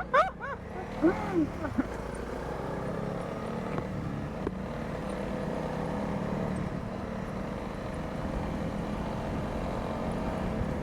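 Honda CRF300 Rally's single-cylinder engine running at a steady cruise, heard from the rider with road and wind noise.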